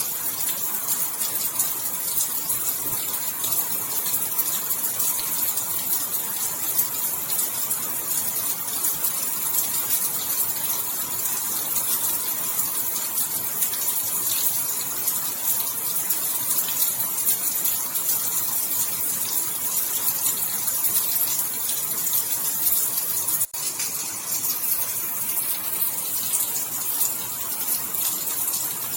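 Steady heavy rain, a dense hiss of drops pattering throughout. The sound cuts out for an instant about two thirds of the way in.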